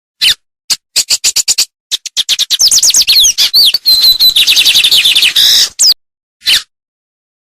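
Songbird singing: a few single sharp chirps, then a fast run of rapid sweeping whistled notes with a short held high note in the middle, ending in single calls again.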